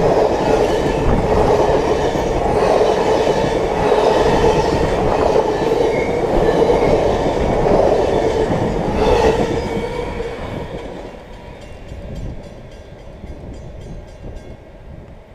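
Passenger cars of a Canadian Pacific train rolling past close by at track level, steel wheels on the rails with a few sharp knocks. The last car clears about ten seconds in, and the sound fades quickly to a faint, receding rumble.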